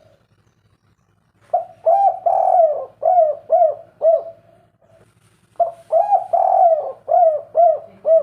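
Spotted dove cooing: two calls, the first about a second and a half in and the second after a short pause, each a long coo followed by three short clipped 'kuk' notes.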